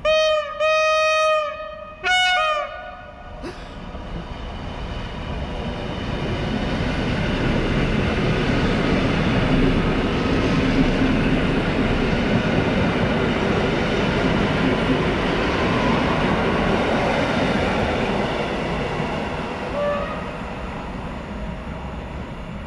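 A passenger multiple-unit train sounds its horn three times, short, longer, then short, as it approaches. It then runs through the station at speed, its wheel and track rumble swelling to a peak as it passes and fading as it draws away.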